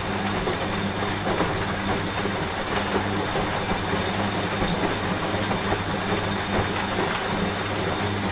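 Steady rain with scattered drop ticks, over the steady low hum of a washing machine running.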